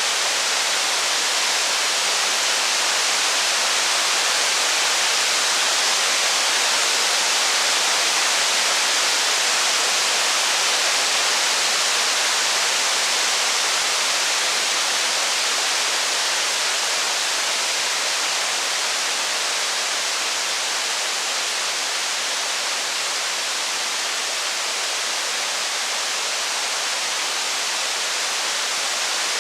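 Steady heavy rain: an even, unbroken hiss with no separate drops, crackles or thunder standing out.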